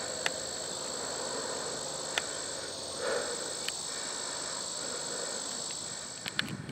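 Insects trilling steadily in a high, unbroken drone, with a few sharp clicks scattered through.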